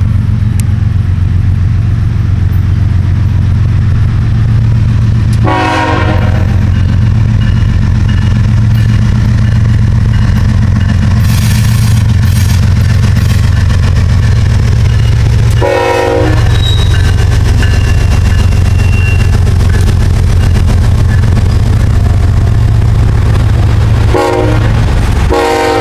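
Iowa Interstate GE ES44AC diesel locomotive hauling a loaded tank-car train past close by, with a loud, steady low rumble of engine and rolling cars. Short horn blasts sound four times, about six, sixteen, twenty-four and twenty-five seconds in.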